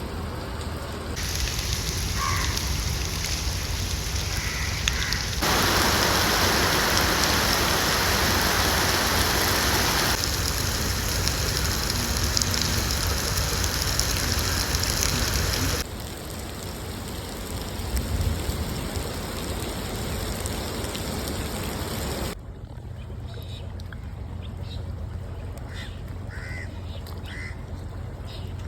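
Heavy rain falling as an even hiss whose loudness jumps abruptly several times. It is loudest in the middle and lighter near the end. A few short bird calls come through near the start and again near the end.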